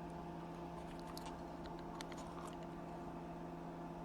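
Faint, scattered light clicks from small screws being handled, over a steady electrical hum.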